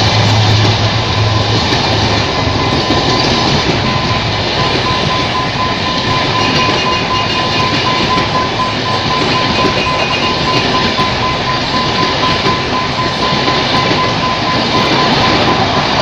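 A train passing at speed: a loud, steady rush of wheels on rails, with a thin steady whine over it. A low hum fades out in the first two seconds.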